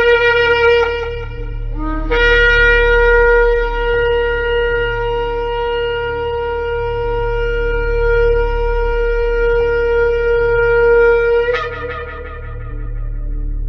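Shofar blowing: a short blast, then one long steady note of about nine seconds that ends in a sharp flare before dying down.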